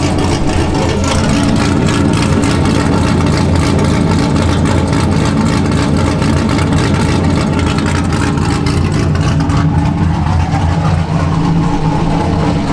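A C6 Corvette's cammed LS3 V8, with a stage 3 BTR camshaft, running steadily through an open exhaust that is straight-piped from the headers back with no mufflers, so it is loud.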